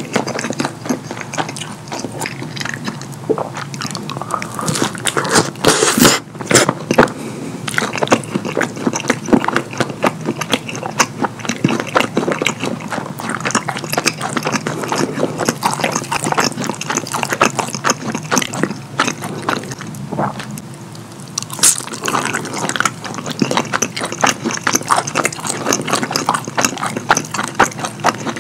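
Close-miked wet chewing and lip smacking of a mouth eating fettuccine in a creamy cheese sauce, a dense run of sticky smacks and squelches that barely lets up.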